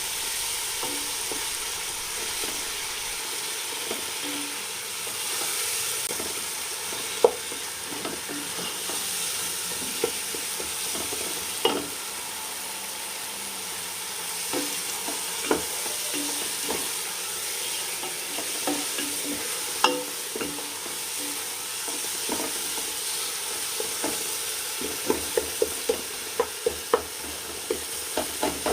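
Spiced masala paste of tomatoes, ginger garlic paste and curd sizzling as it fries in oil, being cooked down to a thick paste, with a steady hiss. It is stirred now and then, the utensil knocking against the pot, with a quick run of knocks near the end.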